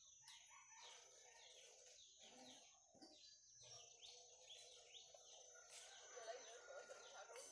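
Faint outdoor ambience of small birds chirping over and over in short, falling calls, over a steady high-pitched tone.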